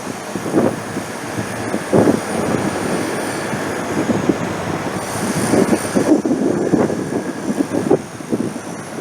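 A train running along the rails, its wheels knocking repeatedly over the track, with a faint high wheel squeal in places.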